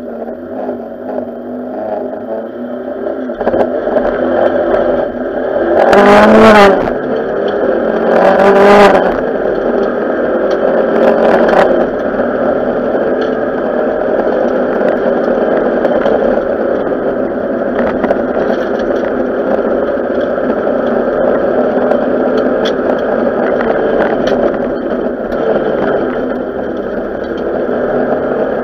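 Renault 5 GT Turbo rally car's turbocharged four-cylinder engine heard from inside the stripped cabin, running hard at speed on a stage. It is loudest in two short surges about six and eight seconds in, then stays steady at high revs, with rattles from the cabin.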